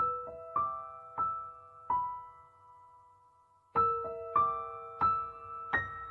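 Slow, gentle piano music: single notes struck one after another and left to ring out, in two short phrases with a brief pause between them.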